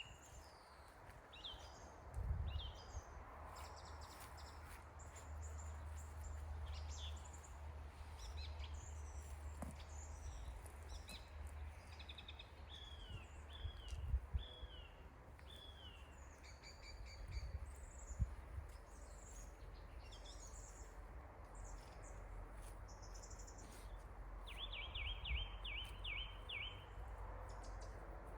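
Several songbirds chirping and singing, with short whistled notes throughout and a quick run of repeated falling notes near the end. A low rumble and a few soft thumps sit underneath.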